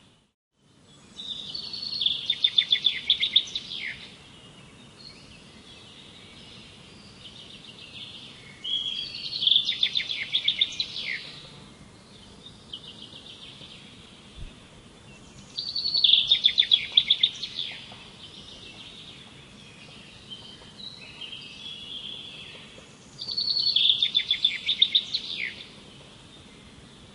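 A bird singing the same song four times, about every seven seconds: each phrase a fast run of high notes lasting two to three seconds. Fainter chirping continues between the phrases.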